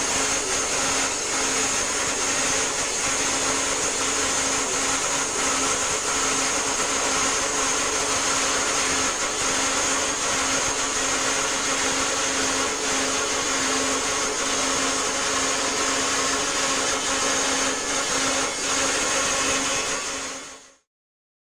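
Self-built bandsaw mill running steadily with a high whine, sawing a log into boards; the sound cuts off suddenly near the end.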